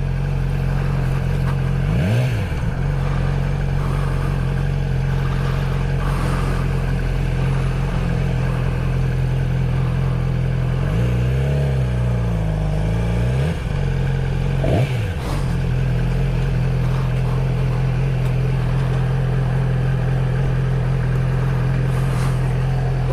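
Honda Grom's single-cylinder engine running steadily while the motorcycle cruises, on its stock exhaust. A few brief swoops in pitch come about two, twelve and fifteen seconds in.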